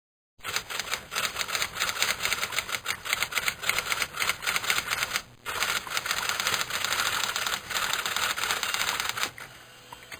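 Typewriter being typed on: a fast, continuous clatter of keystrokes with a brief pause about five seconds in, trailing off to a faint sound near the end.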